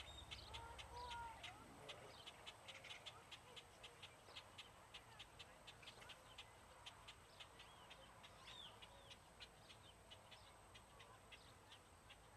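Birds chirping: many short, high calls, faint, with a few lower calls in the first second or two.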